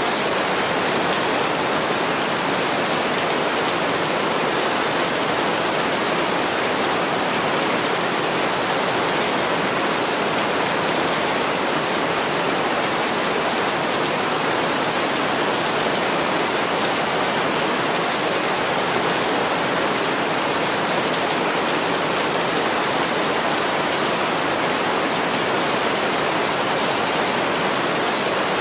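Heavy rain pouring steadily against a window: a dense, even hiss that stays at one level, with no single drops or knocks standing out.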